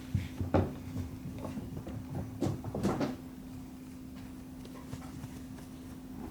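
Kittens at rough play: several sharp knocks and thumps in the first three seconds, then quieter, over a steady low hum.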